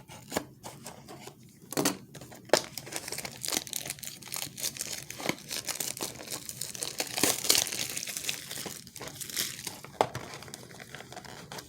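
Plastic shrink wrap being torn and crumpled while a blaster box of Heritage baseball cards is unwrapped: continuous crinkling with many sharp crackles, busiest in the middle.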